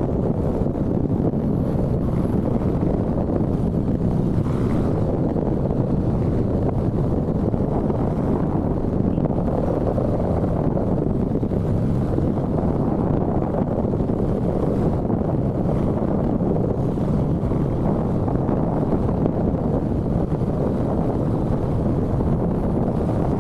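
Steady wind rush on the microphone of a moving motorcycle, with vehicle running noise underneath.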